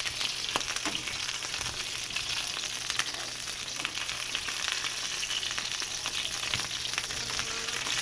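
Cicadas deep-frying in hot grease: a steady sizzle with many small crackling pops. The little pops and bubbling are what the cook listens for as the sign the cicadas are ready.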